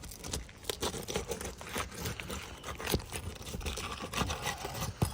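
Gritty scraping and crunching of an asphalt 3-tab shingle being handled on the roof, with many small clicks and knocks.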